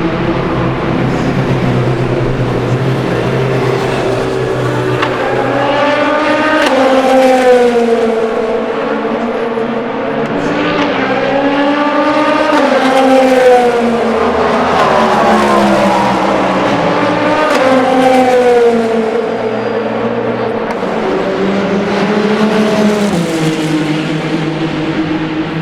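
Endurance race cars passing at speed one after another, their engine notes climbing and then falling away as each goes by. Several passes come in waves, with the loudest about a third and two thirds of the way through.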